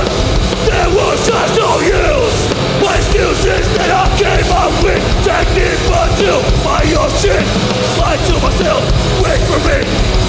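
Hardcore punk band playing live at full volume: distorted guitars, bass and drums, with yelled voices over the music.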